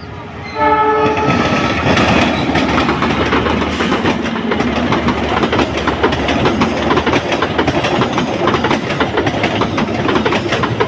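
The Lodaya passenger train entering the station: a short horn blast about half a second in, then the train running close by with loud, continuous clatter of wheels over the rails.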